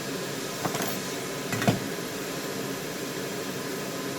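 Steady rushing air from a soldering bench's hot-air rework station and fume extractor. Two brief light clicks come about a second and a half apart, likely metal tools touching the circuit board.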